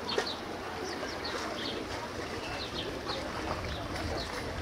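Small birds chirping, many short, quick calls, over a steady low hum and a constant wash of background noise.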